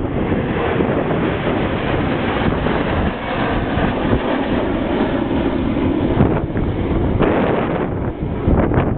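Aerobatic display aircraft engines roaring overhead, swelling for a few seconds midway, with wind buffeting the microphone.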